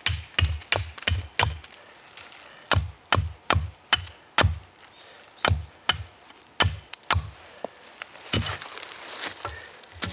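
Wood being chopped with a bladed tool in a quick run of sharp strikes, about three or four a second, in short bursts with pauses. Near the end this changes to a rasping back-and-forth sound like sawing wood.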